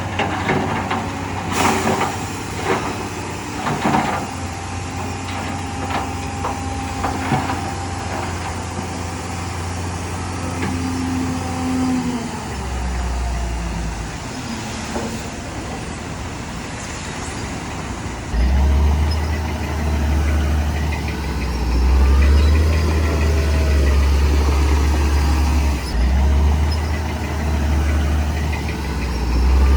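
Heavy diesel earthmoving machinery running, with several sharp clanks in the first few seconds. The engine note grows louder and heavier about two-thirds of the way through, as under load.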